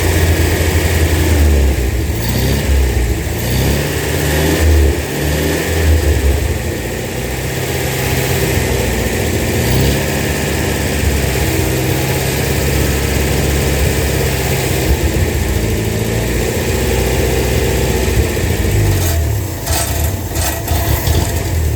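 An engine running, its pitch rising and falling for the first several seconds and then holding steadier, with a few sharp knocks near the end.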